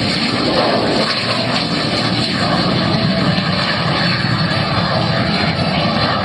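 P-51 Mustang's Rolls-Royce Merlin V12 engine running loud and steady as the plane flies past.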